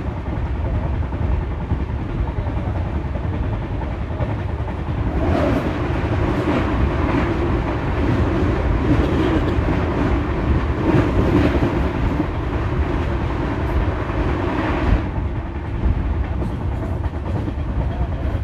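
Indian Railways passenger train running on the track, a steady rumble of wheels on rails. It grows louder and harsher from about five seconds in, then eases back near fifteen seconds.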